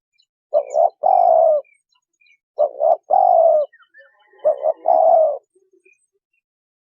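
Spotted dove cooing: three phrases about two seconds apart, each two short coos followed by a longer, lower-pitched croo, then it falls silent a little past halfway. Faint high chirps of small birds sound in the background.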